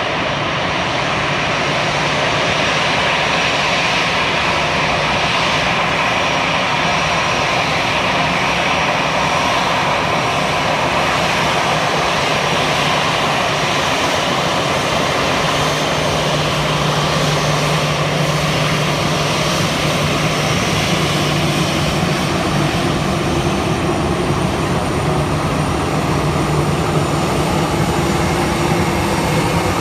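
Sukhoi Su-30MKI fighter's jet engines running steadily, a continuous loud rush with a low hum that strengthens about halfway through.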